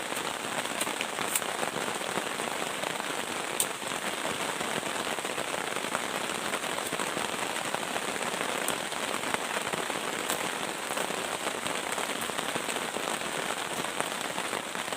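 Heavy rain falling steadily, a constant hiss with occasional sharper drop ticks.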